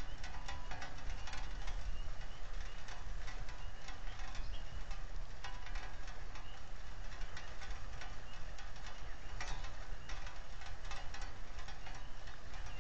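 Rain falling: a steady hiss with many small, irregular ticks of drops, over a low rumble.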